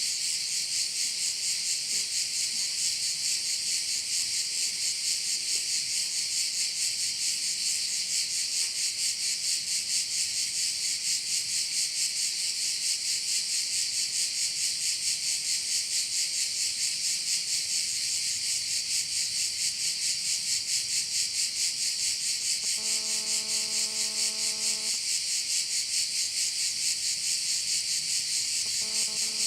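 A dense chorus of cicadas buzzing, high-pitched with a fast, even pulsing. About three-quarters of the way through, a steady pitched tone sounds for about two seconds.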